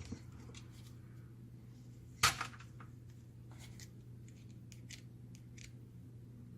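Small parts of a laser printer fuser unit being handled: light clicks and short scrapes, with one sharp snap about two seconds in, over a steady low hum.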